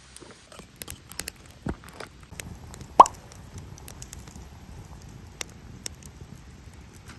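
Scattered light clicks and taps of small objects being handled, with one louder plop about three seconds in.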